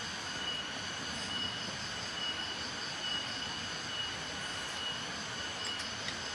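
Steady forest ambience: the even rush of a distant river with thin, high, steady tones above it, and a few faint clicks near the end.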